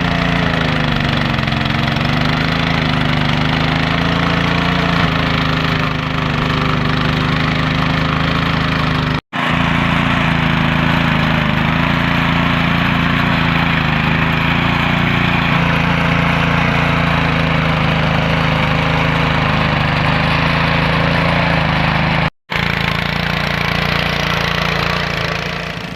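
Small gasoline engine of a garden tiller running steadily as it works the soil, its pitch wavering slightly under load. The sound cuts out abruptly for a split second twice.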